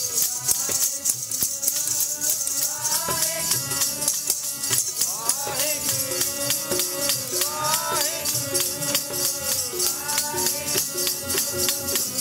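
Sikh kirtan music: a melody over a held drone with a singing voice, and fast, steady jingling percussion.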